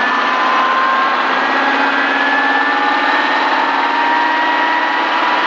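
Schweizer S300 CBi helicopter running, heard from the cabin: the steady drone of its four-cylinder Lycoming piston engine and rotors, with thin whining tones that drift slightly in pitch.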